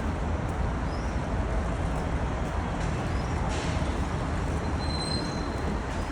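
Steady outdoor street-market din with a low traffic rumble. A few short, high rising chirps come through, about one every two seconds, and a thin high tone sounds briefly about five seconds in.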